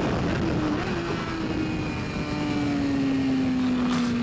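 BMW S1000RR superbike's inline-four engine held at high revs under race riding, its note slowly dropping in pitch, over a steady rush of wind noise. A short sharp click comes near the end.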